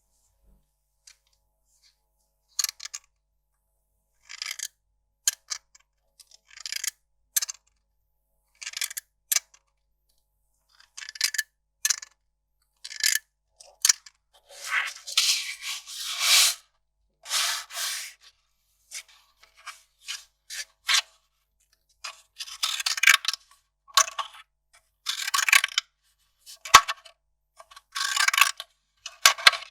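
Kraft paper being worked by hand in a string of short, crisp strokes, each a fraction of a second to about a second long, with silence between them.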